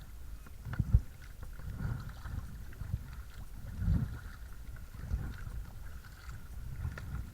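A small electric trolling motor runs with a faint steady whine, under irregular low buffeting and thumps from the moving kayak, with a few sharp knocks.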